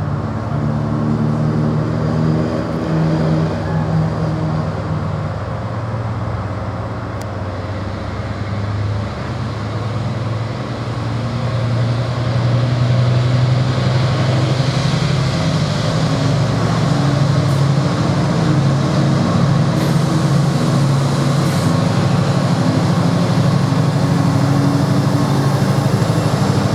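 Freightliner Class 70 diesel locomotive 70016 running with a steady low engine note, growing louder about twelve seconds in as it draws nearer.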